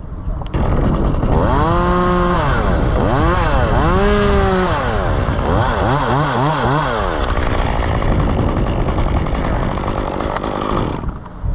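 Chainsaw engine revved up and down twice, then blipped quickly several times, then held at high speed before cutting off near the end.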